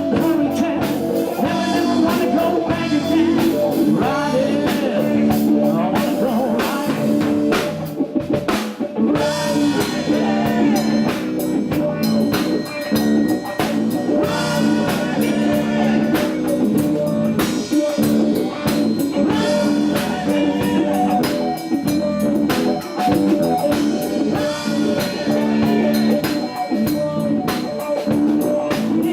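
Live blues-rock band playing, with guitar and drum kit.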